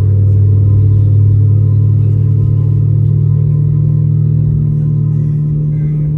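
Airliner jet engines running with a steady, loud low hum. About halfway through, the lowest tone fades and a slightly higher one takes over as the engine setting changes.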